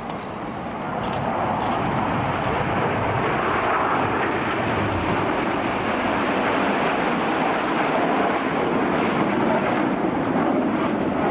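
Jet engine noise from BAE Hawk T1 jets flying in formation overhead, building over the first second or two and then holding steady and loud.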